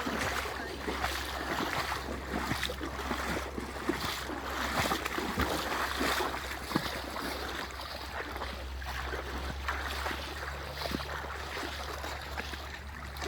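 Steady noise of running river water, dotted with many small irregular ticks.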